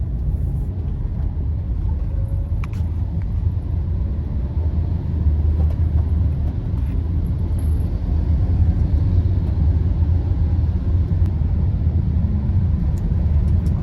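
Steady low rumble of a moving vehicle, growing a little louder about a third of the way in.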